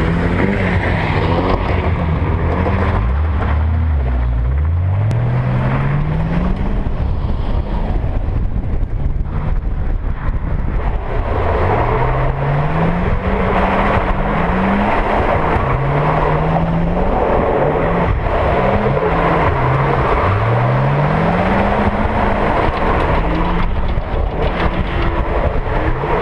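Drift car's engine revving hard, its pitch climbing again and again and dropping back as the throttle is worked through the slides. Tyres squeal under the engine, louder from about halfway through.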